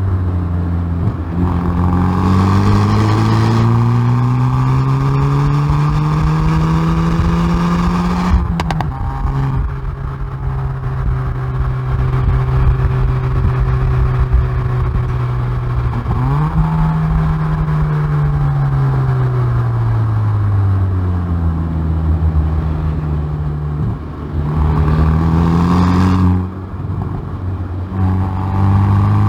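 Hyundai i30N Performance's turbocharged 2.0-litre four-cylinder heard at the exhaust under hard acceleration on track, the engine note climbing with revs and dropping sharply at an upshift about eight seconds in, with a brief crackle. It then holds steady, falls away as the car slows, and climbs again with another sharp drop near the end.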